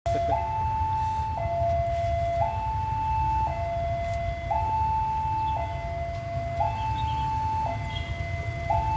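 Electronic two-tone alarm sounding steadily, alternating a higher and a lower tone about once a second each, over the low rumble of a diesel engine.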